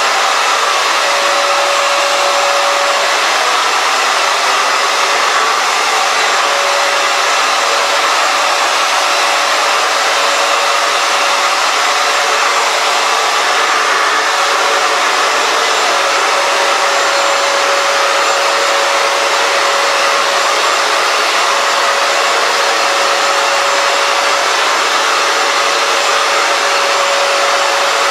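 Hoover FloorMate Edge wet-dry hard floor cleaner running steadily, its suction motor whirring with a steady whine through it.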